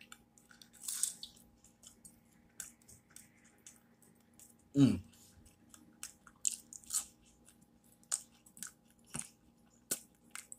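Close-up eating sounds: a man chewing fried potato and sandwich, with wet mouth clicks and lip smacks. About five seconds in comes one short vocal sound that falls in pitch, the loudest thing in the stretch.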